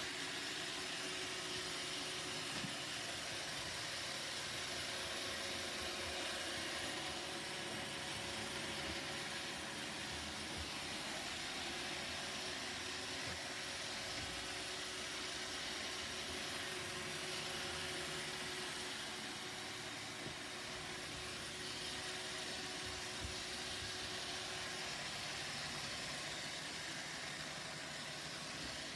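Roomba robot vacuum cleaner running: a steady hiss of its motors and brushes with a faint hum of two held tones.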